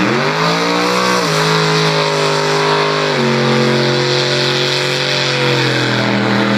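Drag race car launching at full throttle. The engine note climbs steeply, then drops twice, about a second and about three seconds in, as it shifts up through the gears, and it holds a steady pull in between.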